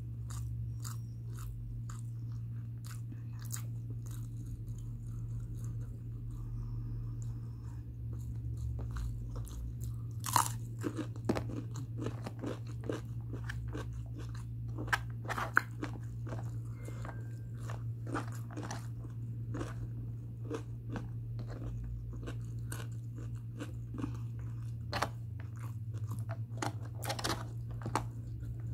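A person chewing mouthfuls of mutton biryani eaten by hand, with many small wet clicks, smacks and crunches and a few louder bites, over a steady low hum.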